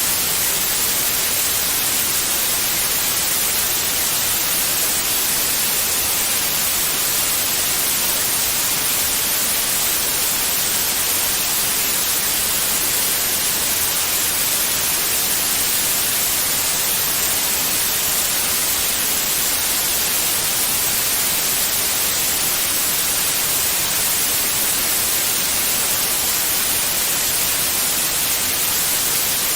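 Steady white noise, an even hiss with most energy in the high frequencies, unchanging throughout.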